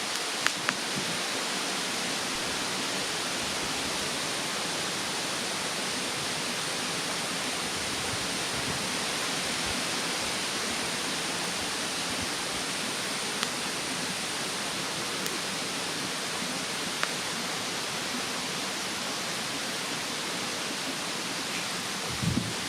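Steady rushing of a mountain stream, with a handful of sharp pops from a wood fire: two in the first second, a couple in the middle and a double pop near the end.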